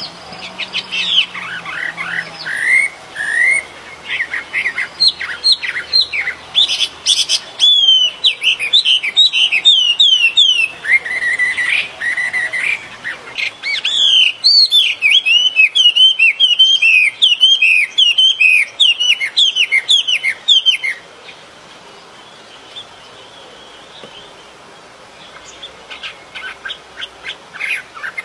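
Songbird singing: rapid runs of quick, downward-sweeping chirps that break off about two-thirds of the way through, then start again near the end.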